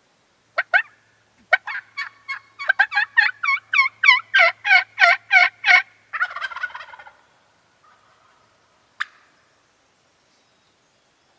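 Wild turkeys: a run of yelps that speeds up and grows louder, answered about six seconds in by a tom gobbling for about a second, then a single sharp cluck.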